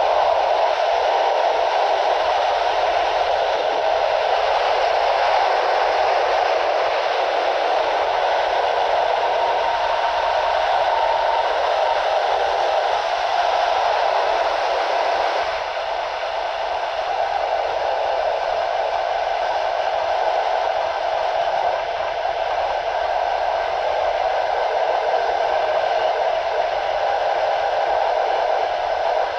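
Steady rushing noise of a passenger train running along the line, heard at an open coach window: wheels rolling on the rails mixed with wind, thinned by noise-reduction processing.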